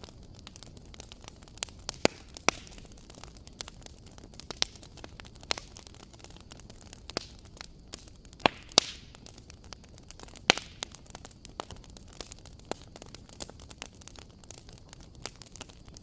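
Wood fire crackling in a fireplace: irregular sharp pops and snaps over a soft steady hiss, with a few louder pops around the middle.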